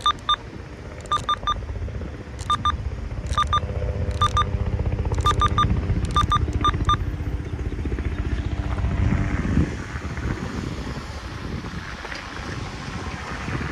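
A freight train rolling past with a low rumble that builds and then eases off about two-thirds of the way through, with the steady drone of a diesel locomotive in the middle. Over the first half, short metallic ringing clicks come in irregular clusters of two or three.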